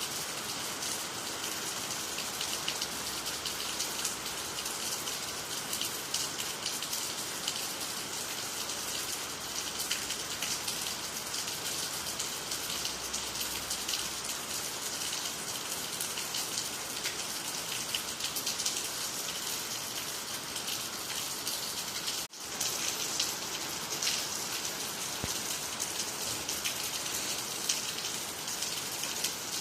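Steady rain falling on water, trees and the ground, a dense even hiss with countless small drop ticks. It breaks off for an instant about three-quarters of the way through, then carries on unchanged.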